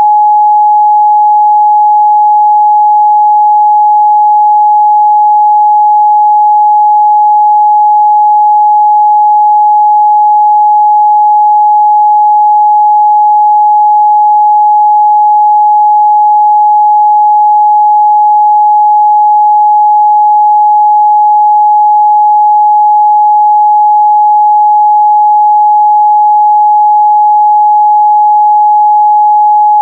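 A steady, loud 841 Hz pure sine test tone, one unchanging pitch held throughout, used to check speaker and headphone mid-range response.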